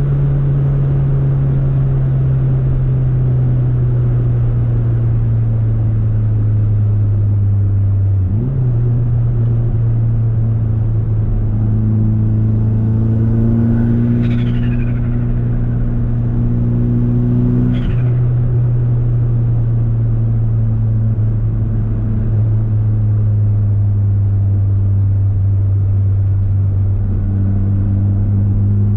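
Turbocharged Mitsubishi Eclipse GSX's 4G63 inline-four running at moderate, fairly steady revs while driving. The engine note breaks and changes pitch about 8 seconds in and again near 18 seconds. Two short falling turbo whistles come about 14 and 18 seconds in, as the throttle is lifted.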